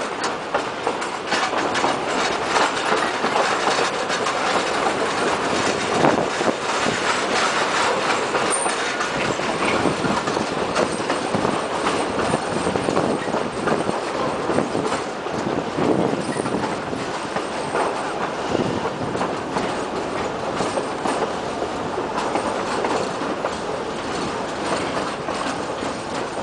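Railway carriage running along the track, heard through an open carriage window: steady rumble of the wheels with irregular clacks over the rail joints and a faint wheel squeal now and then.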